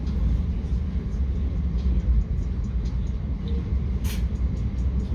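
Passenger train running at speed, heard from inside the carriage: a steady low rumble from the wheels on the track, with faint clicks and one short sharp high-pitched noise about four seconds in.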